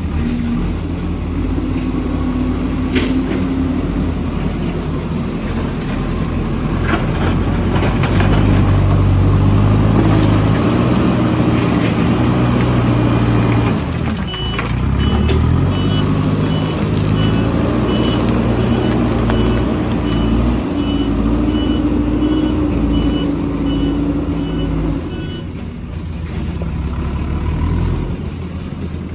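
Heavy construction machinery's diesel engine running under load, its note rising and falling, with a reversing alarm beeping steadily from about halfway through to near the end.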